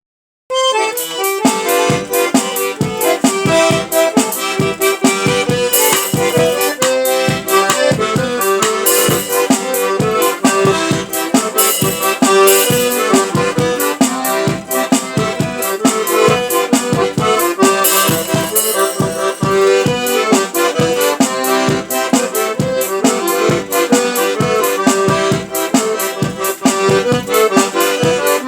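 Accordion (sanfona) playing a 'moda de fogueira' bonfire tune: a melody over a steady, regular pulse of bass strikes, starting about half a second in.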